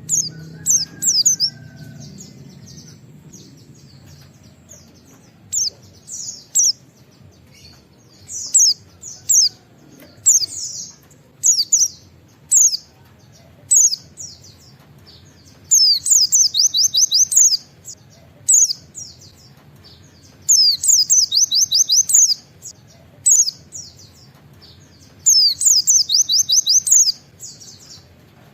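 White-eye (pleci) singing with short, high, scattered chirps and phrases. Three times it breaks into a rapid run of about ten repeated falling notes, each run lasting about a second and a half: the 'wit wit' shots (nembak) that keepers prize in this bird.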